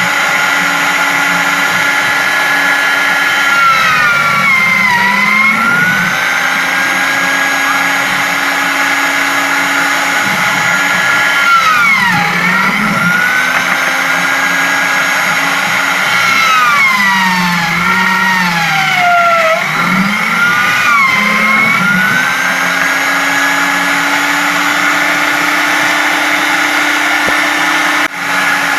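Homemade drill press motor running steadily. Its pitch sags and recovers four times as it slows under load, typical of the bit being fed into the work.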